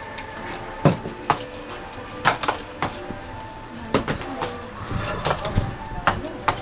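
Background music with held tones, over which hard objects knock and clink sharply about nine times at irregular intervals.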